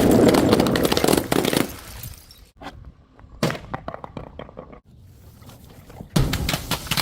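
Glass breaking: a shattering crash dies away over the first second and a half, a sharp knock about halfway through is followed by small clinks, and another crash with rapid clinks comes near the end.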